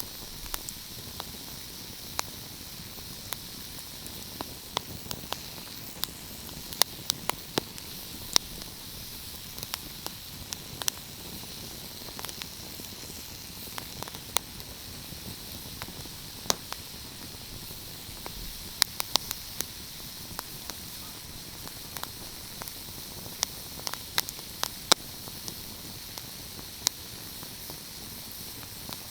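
Wood fire crackling: irregular sharp pops and snaps, some in quick clusters, over a steady hiss.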